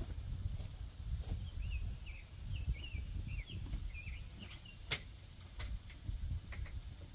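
A small bird chirping a quick run of about ten short notes, with a few sharp metallic clicks, the loudest about five seconds in, over a low rumble.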